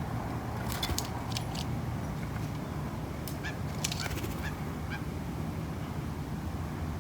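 Short, sharp bird calls and clicks scattered over a steady low outdoor hum, bunched around a second in and again in the middle.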